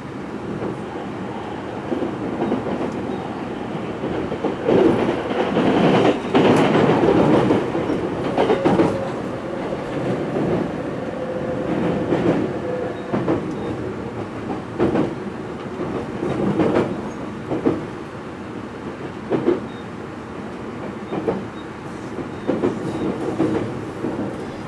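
Running noise heard inside a JR East E257-500 series express motor car: a steady rumble of wheels on rail, with wheels clacking over rail joints and points at uneven intervals. It is loudest a few seconds in.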